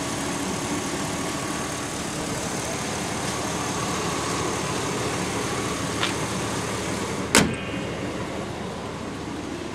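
A 2005 Chevy Suburban's 6.0-litre V8 idling steadily and evenly, an engine the owner says runs perfect with nothing wrong with it. A sharp knock comes about seven seconds in.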